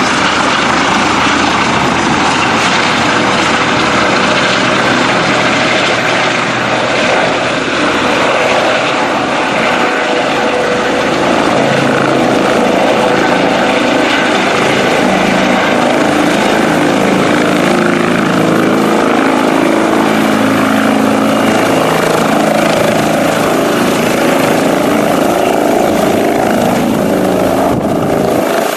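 LifeFlight medical helicopter running loudly: a steady din of rotor and turbine, with a hum that shifts in pitch.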